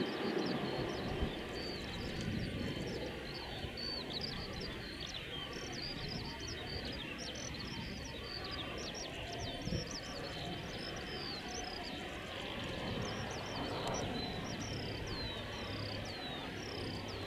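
Small birds chirping over and over, in quick, short, falling chirps, over a steady low rumble and a faint steady high whine.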